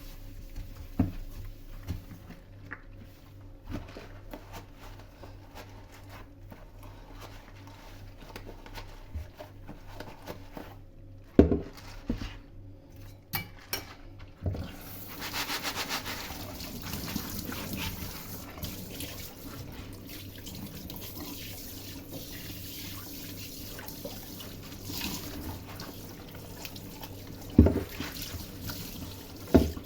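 Kitchen tap running into a sink from about halfway through, with a few sharp knocks of things being handled. Before the water starts there are quiet small clicks and one sharp knock.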